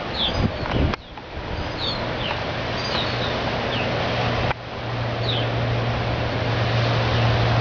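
Birds giving short, falling chirps over a steady rush of wind-like noise, with a low steady hum that comes in and grows louder from about two seconds in.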